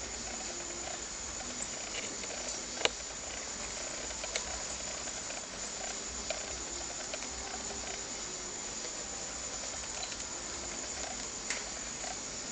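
Steady background hiss with scattered light clicks and taps, one sharper click about three seconds in.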